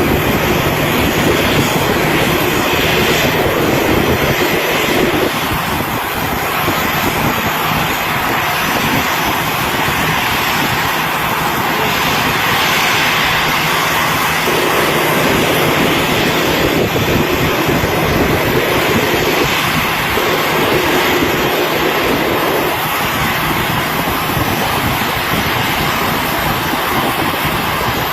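Jet engines of a large airliner coming in to land: a loud, steady rushing noise that swells and eases slightly over several seconds.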